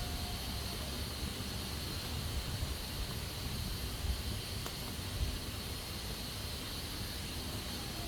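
Pressure cooker hissing steadily as steam escapes from its valve, an even hiss over a low rumble.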